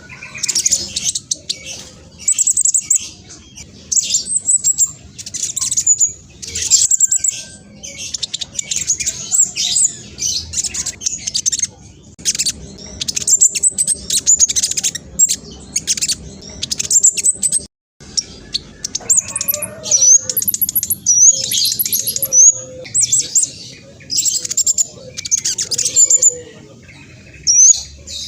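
Black sunbird singing: fast, high-pitched chattering phrases, each about a second long, repeated over and over with short gaps, broken once by a brief total silence a little past halfway.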